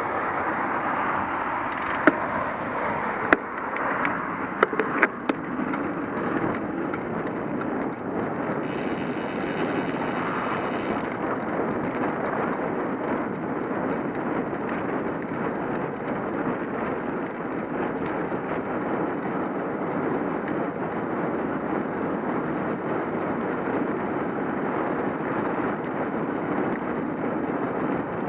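Steady rushing noise of a bicycle being ridden: wind on the microphone and tyres on the road, with a few sharp clicks or knocks about two to five seconds in.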